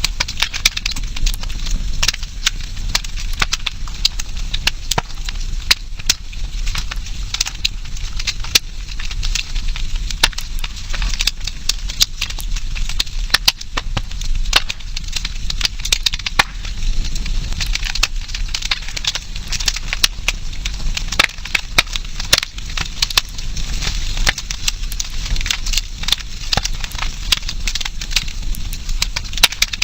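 Campfire burning: wood crackling and popping in many sharp, irregular snaps over a steady low hiss and rumble of the flames.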